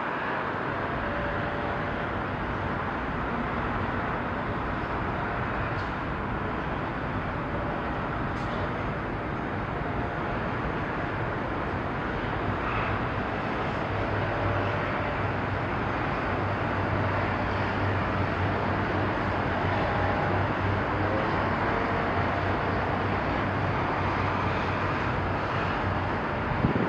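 Steady low engine hum from harbour vessels manoeuvring a ship alongside, over a constant rushing background. The hum grows stronger about halfway through.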